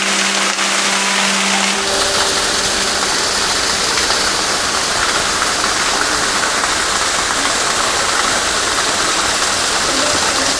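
Water from a spring spilling and splashing: a steady, even rushing. A low steady hum stops about two seconds in, and the rushing turns brighter.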